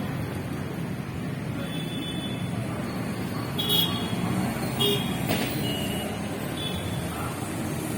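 Steady road traffic rumble, with several short high horn beeps from about halfway through.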